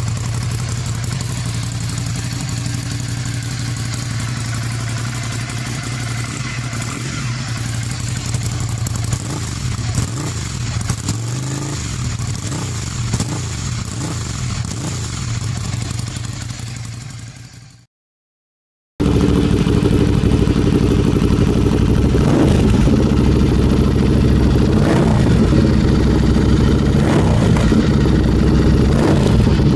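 Ducati Scrambler 800's air-cooled L-twin engine running steadily through its exhaust, then fading away. After a brief silence, a louder recording of the engine running steadily, with a few short surges.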